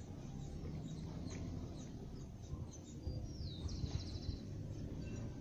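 Small birds chirping over a steady low rumble, with a falling call and a short, fast trill just past the middle.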